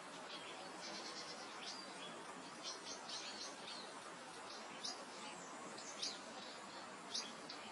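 Soft steady meadow wind with small birds chirping, short high notes scattered throughout, a quick run of repeated notes about a second in, and a few louder chirps in the second half.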